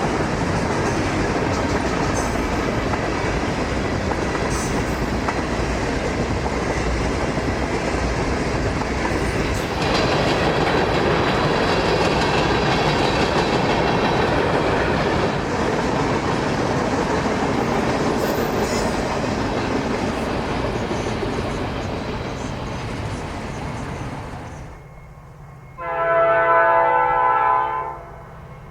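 Freight train rolling past with a steady rumble of wheels on rail, growing louder about ten seconds in. Near the end the rumble drops away and a diesel locomotive's horn sounds one loud blast of about two seconds.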